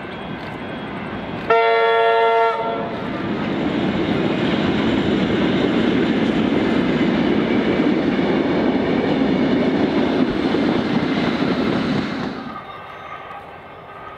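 A Victorian Railways Tait wooden-bodied suburban electric train sounds one blast of its horn, lasting about a second, as it approaches. It then runs loudly past close by, its wheels clattering on the rails. The sound cuts off abruptly about twelve seconds in.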